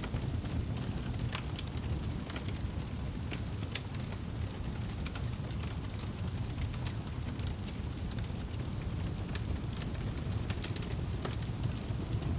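Wood fire crackling in a fireplace: irregular sharp pops and snaps, several a second and some louder than others, over a steady low rumble of the burning.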